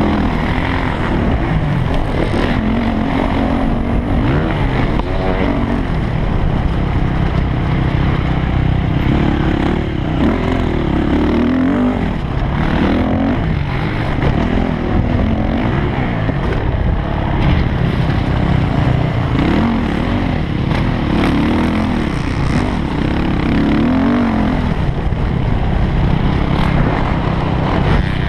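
Yamaha YZ450F motocross bike's four-stroke single-cylinder engine, revving up and dropping back again and again as it is ridden hard.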